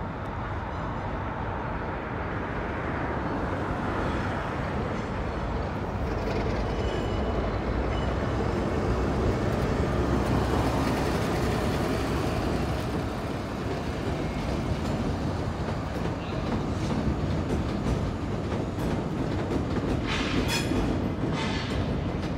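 Electric multiple-unit passenger train crossing a steel lattice railway bridge: a steady rumble of wheels on rail that swells toward the middle. Near the end come a few short, high-pitched wheel squeals.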